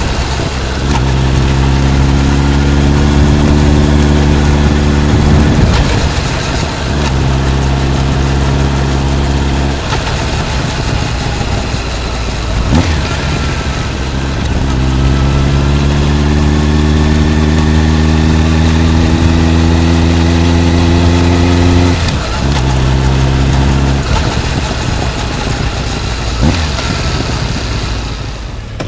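Honda CB motorcycle with a titanium full exhaust system, pulling through the gears. The exhaust note climbs in pitch, breaks briefly at each shift, then climbs again, with a lot of wind noise over the microphone.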